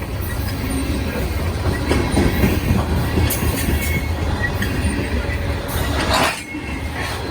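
Freight train cars rolling past at close range: a heavy low rumble of wheels on rail with clicking over rail joints and light wheel squeal. A louder rushing burst comes about six seconds in, after which the rumble eases.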